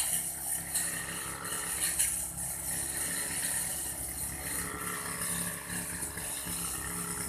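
An old Aldo brush cutter's small engine running steadily while cutting grass, with a high whirring hiss from the cutting head.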